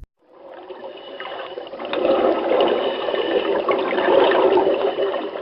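Running water, a bubbling, gurgling flow that fades in and grows louder about two seconds in.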